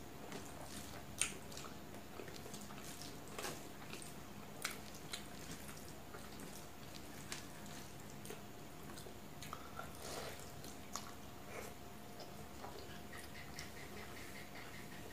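Mouth sounds of a person eating rice and chicken curry by hand: chewing and lip smacks, with soft squishes as fingers work the rice on a steel plate. Scattered sharp clicks, the loudest about a second in.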